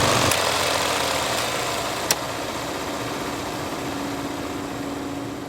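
Film reel noise: a running film projector's steady mechanical whir and hiss with a faint low hum, broken by a few sharp clicks, the loudest about two seconds in.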